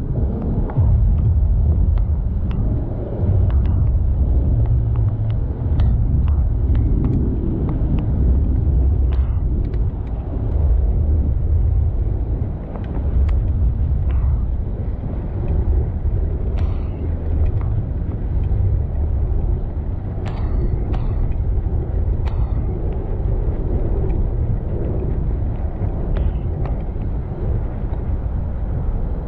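Heavy, uneven low rumble of wind and road noise on a microphone carried along on a bicycle, with scattered small clicks and rattles.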